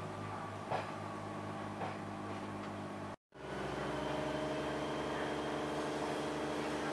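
Class 144 Pacer diesel railbus heard from on board, its diesel engine running steadily under way, with two light knocks in the first two seconds. The sound cuts out for a moment a little after three seconds in, then the engine drone carries on slightly louder.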